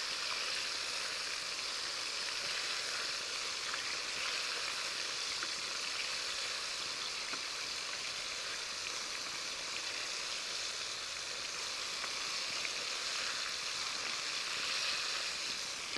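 Chicken pieces frying in hot oil in a wok, a steady, even sizzle.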